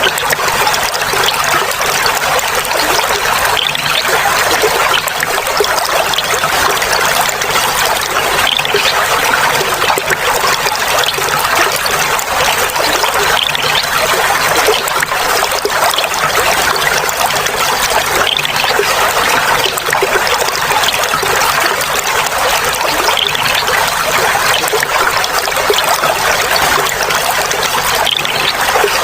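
Clear running water trickling and babbling steadily, a light, even splashing with little low rumble.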